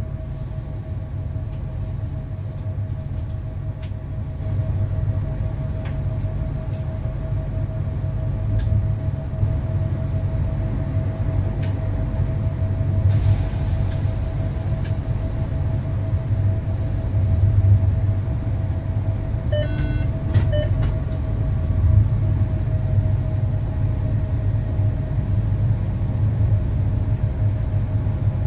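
Electric train running along the track with a steady low rumble and a constant whine. A few sharp clicks come through, and a short run of rapid ticks is heard about twenty seconds in.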